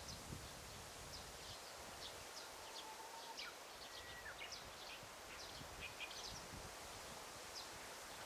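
Daytime forest ambience: a faint, steady hiss of air and leaves with many quick, high bird chirps, thickest in the middle, and a couple of short whistled notes.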